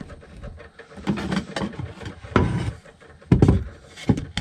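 Wooden floor hatch board over the bilge being handled and set back in place: scraping and several knocks of wood on wood, the loudest about three and a half seconds in.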